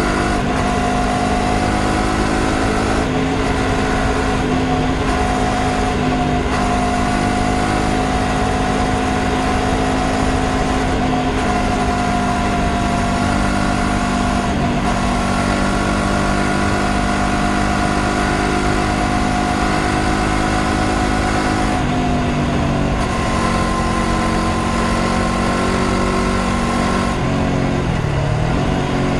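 Honda CBR500R's parallel-twin engine running at a steady pitch while riding. Near the end the pitch dips briefly and then comes back up.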